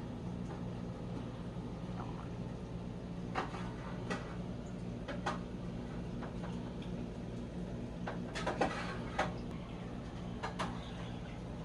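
Irregular light clicks and knocks, about a dozen scattered through, over a steady low hum.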